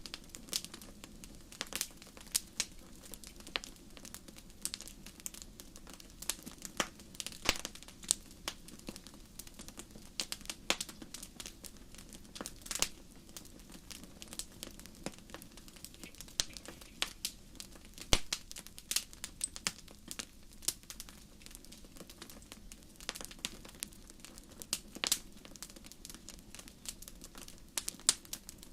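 Crackling fire: irregular sharp snaps and pops, several a second and uneven in loudness, over a steady low background.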